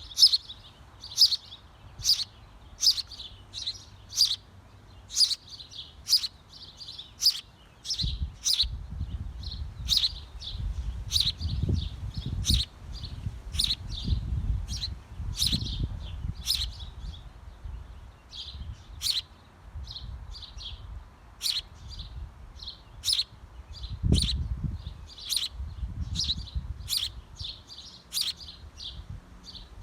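Small bird chirping repeatedly at a birdhouse: short, sharp, high chirps about once or twice a second. From about eight seconds in there is a low rumbling and bumping underneath.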